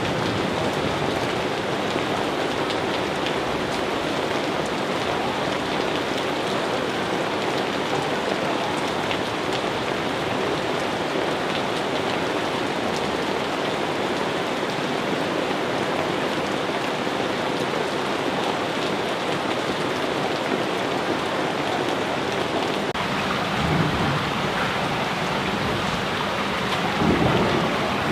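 Steady heavy rain falling, with low rolls of thunder rumbling twice near the end, the second building louder.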